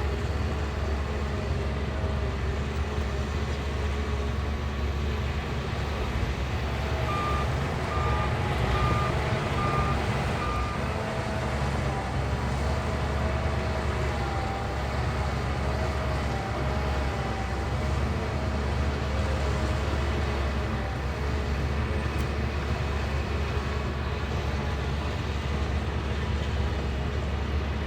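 Shantui bulldozer's diesel engine running steadily under load, with a wavering whine over it. A reverse alarm beeps five times, evenly spaced, about seven seconds in.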